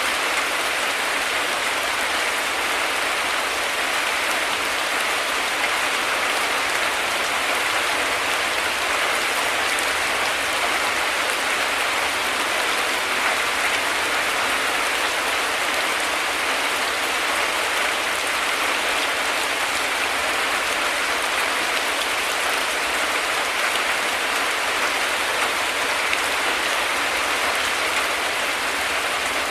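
Heavy rain falling steadily, a dense even hiss of drops without breaks.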